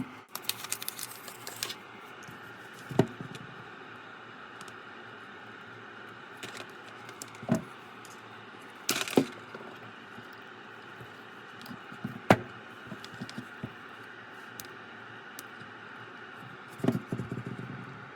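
Scattered sharp clicks and snaps of hand tools and small parts on a workbench as a power adapter's cable is cut and stripped, with short stretches of light crackling near the start and near the end.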